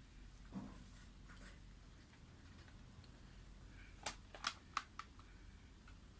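Quiet room with a few faint taps, then four light, sharp clicks in quick succession about two-thirds of the way through, from tableware being handled during a meal.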